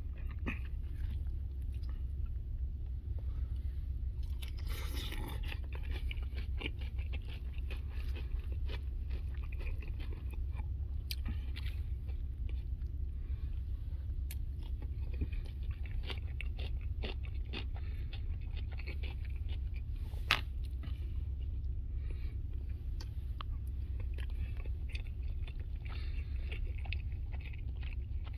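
Chewing and biting food, with a fork scraping and clicking in a foil takeout tray, over a steady low hum. A louder scrape comes about five seconds in and a sharp click about twenty seconds in.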